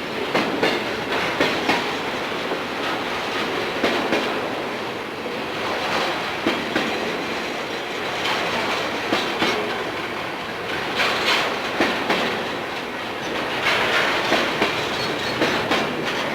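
Freight train cars rolling past at close range, with steady wheel-and-rail rumble broken by recurring groups of sharp clicks as each set of wheels passes.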